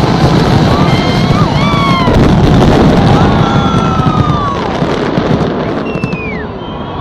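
Fireworks display: a dense run of bangs and crackling, with crowd voices whooping over it. The barrage thins out near the end.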